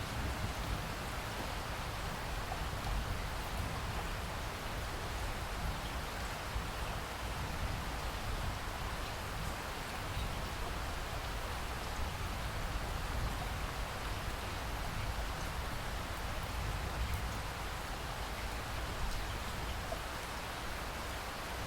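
Steady rain falling, with the patter of drops on surfaces over a low rumble.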